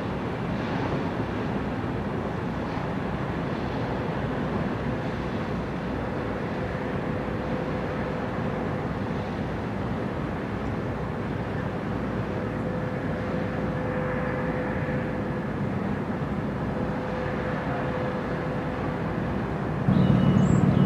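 Steady rumble of engine noise with a faint steady hum. Near the end it gives way to a louder, deeper hum.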